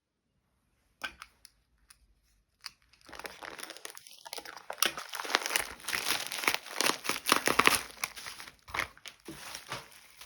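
Packaging being unwrapped by hand: a few light clicks, then from about three seconds in a continuous run of crinkling and rustling with many sharp crackles.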